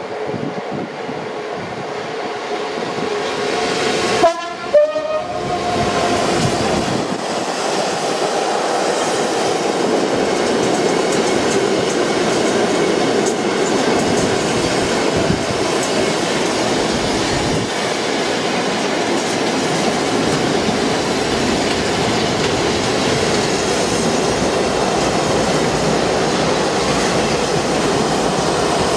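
Class 66 diesel freight locomotive approaching and sounding two short horn blasts about four seconds in, followed by a long train of empty container flat wagons rolling past with steady wheel clatter.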